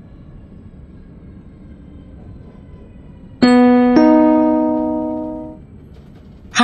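The train's passenger announcement chime: two bell-like notes about half a second apart, the second one higher, ringing out and fading over about two seconds. It signals a stop announcement. Faint train rumble runs underneath.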